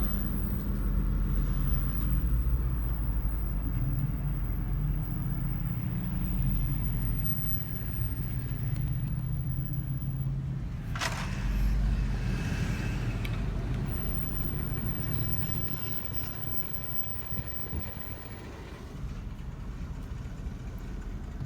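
Car driving, with steady engine and road rumble that eases off somewhat in the last few seconds, and a short sharp noise about halfway through.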